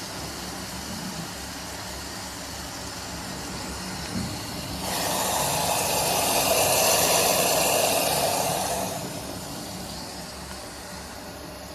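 Washing machine running early in a cottons 40 °C wash: a steady low hum with hiss. About five seconds in, a louder swell of noise rises, holds for about four seconds, then fades.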